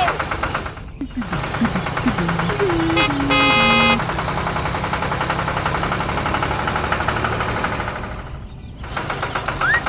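A small motor-vehicle engine runs with a fast rattle. Between about one and four seconds in, a short run of falling tones ends in a horn-like blast. The engine sound dips briefly near the end.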